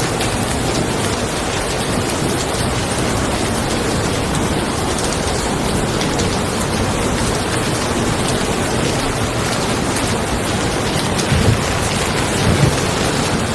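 Steady rain falling on a car, an even hiss of drops, with two brief low thumps near the end.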